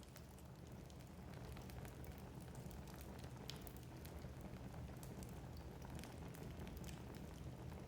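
Wood fire burning in a fireplace, crackling and popping with frequent small sharp snaps over a soft low rumble of the flames.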